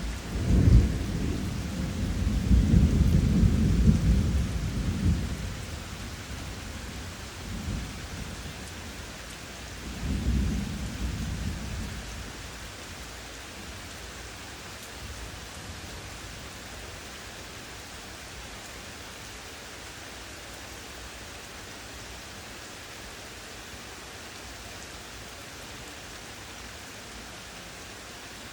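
Thunder breaking sharply and rolling for several seconds, with two smaller rumbles after it, over steady rain. The rain hiss carries on alone once the thunder dies away.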